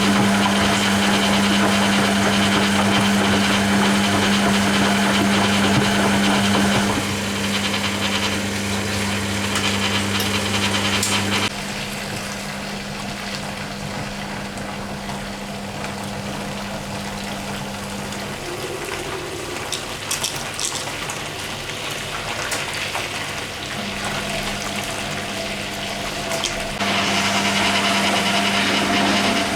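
Hoover Keymatic A3112 washing machine's drain pump running, pumping the wash water out, with a steady hum. It drops in level about 7 and 12 seconds in and rises again near the end.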